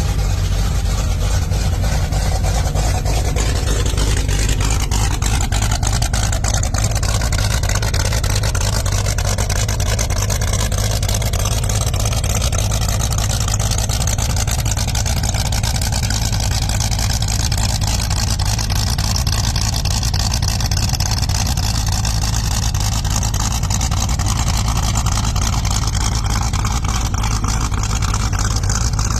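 Stroked 347 small-block Ford V8 in a 1961 Ford Galaxie Starliner race car, running at a steady idle just after being started. Its idle eases a little lower in the first several seconds, then holds steady.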